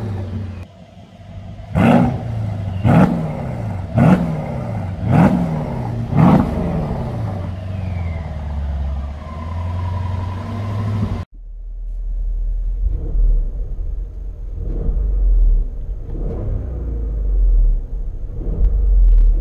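Mercedes-Benz ML500 (W166) twin-turbo V8 revved while standing: five sharp blips, each climbing and falling back to idle. After a sudden cut come softer revs heard from inside the cabin over a deep, steady drone.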